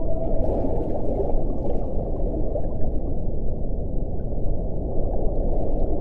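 Wind blowing steadily, a low rushing sound with little high-pitched content. A faint whistling tone fades out just after the start.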